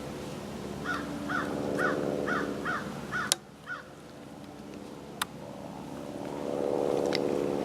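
A crow cawing, a series of about seven calls roughly two a second, over a steady low hum that swells near the end. Two sharp clicks fall in the middle.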